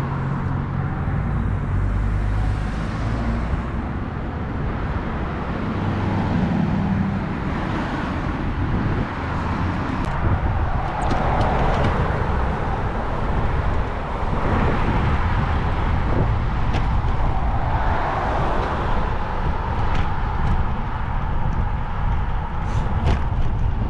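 A motor vehicle running nearby with a steady low engine hum, then road and traffic noise with an uneven low rumble and a few light clicks.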